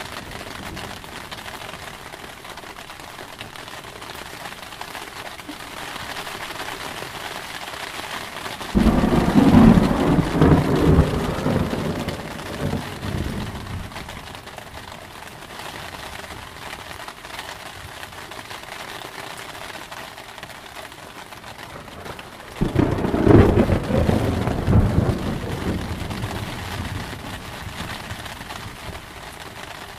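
Thunderstorm: steady rain with two claps of thunder, about nine seconds in and again about twenty-three seconds in, each starting suddenly and rumbling for several seconds before dying away.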